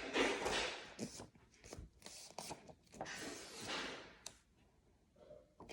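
A folded sheet of A4 paper being handled and creased, giving soft rustles with a few light ticks in between.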